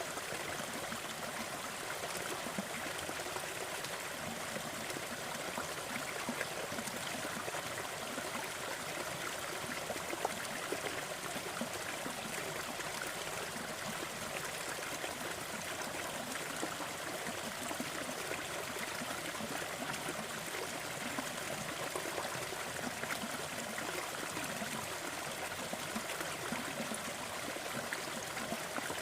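Steady rushing noise bed with faint, scattered crackles of a wood fire mixed in.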